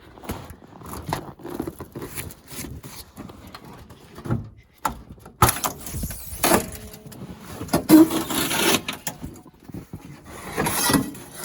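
Clunks, scrapes and rattles from handling the old Ford Highboy pickup's hood and body as it is opened, with a brief metallic squeak about halfway through.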